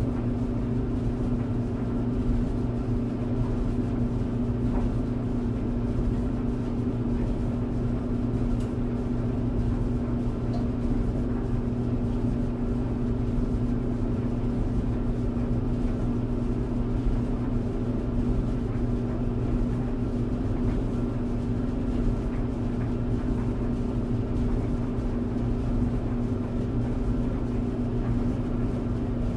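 Tumble clothes dryer running steadily: an even low rumble with a constant droning hum.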